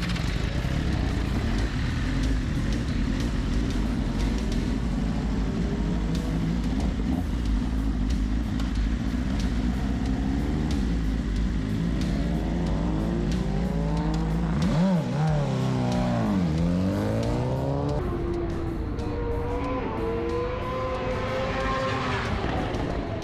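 Superbikes running on the race track: a steady distant engine drone, then about twelve seconds in a bike passes close, its engine pitch swinging sharply up and down. Near the end the revs climb and drop again several times through gear changes.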